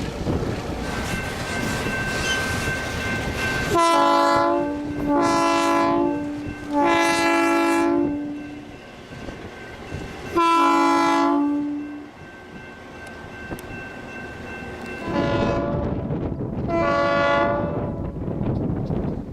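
A diesel locomotive's chime air horn sounding six blasts: three close together starting about four seconds in, a longer one around ten seconds in, and two more near the end. Wind noise on the microphone between and around the blasts.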